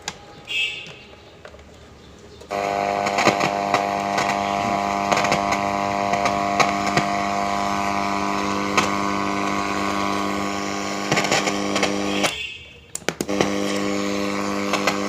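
A Panda portable player's loudspeaker switching on about two and a half seconds in, giving out a loud steady buzzing drone with scattered crackles. The sound cuts out for under a second near the end and comes back.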